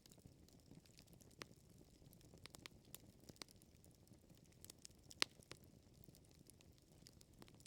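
Quiet wood fire crackling: scattered small pops and snaps over a low rumble of burning logs, with one sharper pop about five seconds in.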